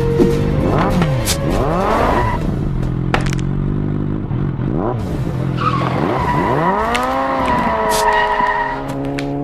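Dubbed motorcycle engine sound effect, revving up and down in pitch several times, with tyre screeches.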